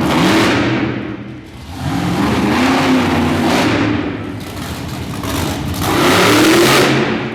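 Monster truck engine revving hard in three long surges, the pitch climbing in each, easing off briefly between them.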